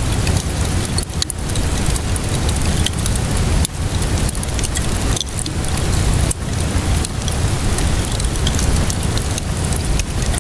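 Steady rainfall with a low rumble, over a wood fire crackling with scattered short pops.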